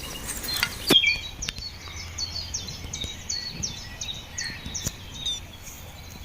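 A small bird chirping over and over in quick short high notes, with a couple of sharp clicks and a low steady outdoor background.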